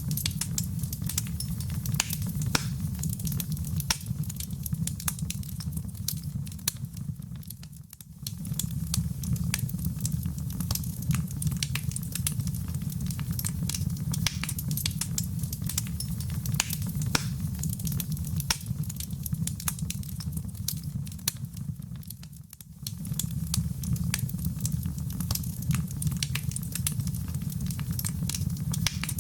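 Fireplace wood fire crackling, with dense sharp pops and snaps over a low steady roar. Twice the whole sound briefly fades and swells back, about eight seconds in and again about twenty-two seconds in.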